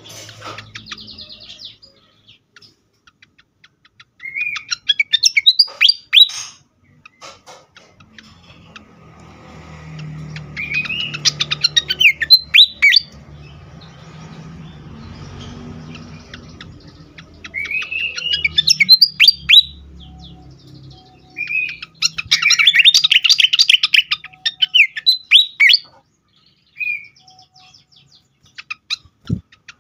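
Sikatan kipas (fantail) singing in four loud bursts, each a quick run of squeaky rising whistles ending in fast chattering notes. The bursts come about 4, 10, 17 and 22 seconds in, with short pauses between them.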